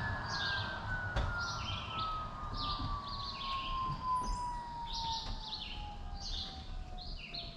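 A songbird singing short chirping phrases over and over, about once or twice a second, over a faint whistle that slides slowly and steadily down in pitch.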